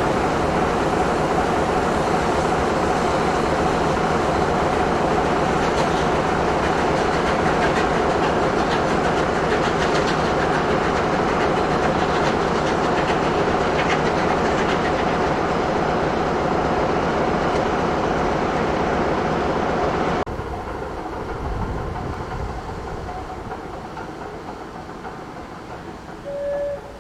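Steam-hauled passenger train on the rails, a loud, steady rumble with a constant ringing tone that cuts off abruptly about twenty seconds in. Quieter train noise then fades away, with a short tone near the end.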